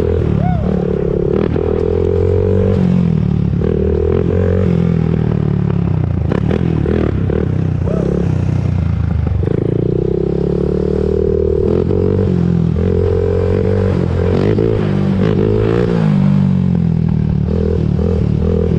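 2001 Honda TRX400EX ATV's single-cylinder four-stroke engine running under way, its pitch rising and falling as the throttle is worked through turns.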